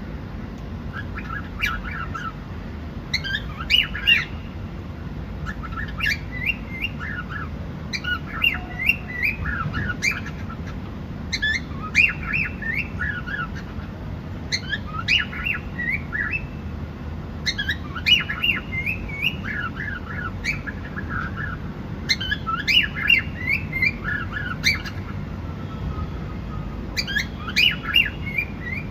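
Cockatiel chirping in short bursts of quick, warbling notes that repeat every two to three seconds, over a steady low rumble.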